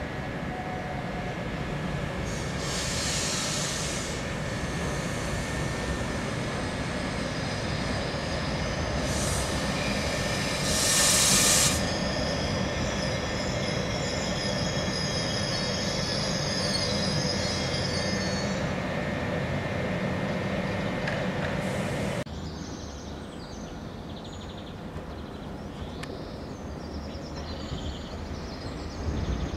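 Double-deck electric regional train pulling into a station platform and braking: a steady rumble of wheels on rail, with brief high screeches about three and eleven seconds in and high squealing tones as it slows. The sound cuts off suddenly partway through and gives way to the quieter rumble of another train approaching from a distance.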